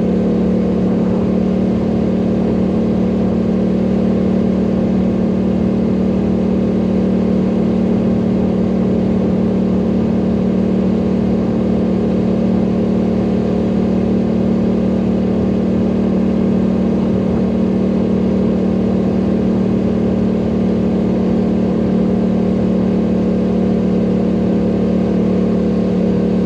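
ATV engine running at a steady, unchanging pitch.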